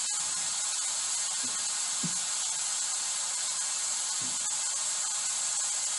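Steady white-noise hiss from a white noise generator used for spirit communication, unchanging throughout.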